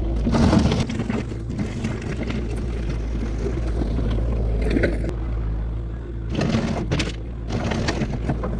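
Diesel engine of a compact skid steer or tractor running steadily, with gravel crunching and scraping in several short bursts as it is pushed and levelled.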